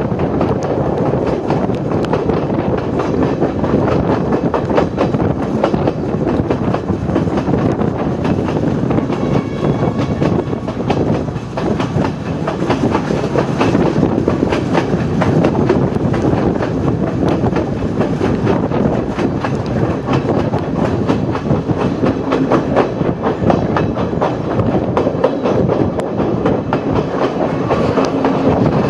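Sri Lanka Railways passenger train running at speed, heard at an open carriage window: a steady running noise of the carriage with a continual clatter of wheels over the rail joints.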